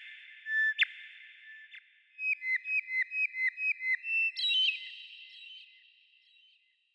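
Clear whistled birdsong with a reverberant tail. A few short notes each end in a sharp drop in pitch, then comes a quick run of about a dozen evenly spaced notes, roughly six a second, climbing to a higher note and fading out near the end.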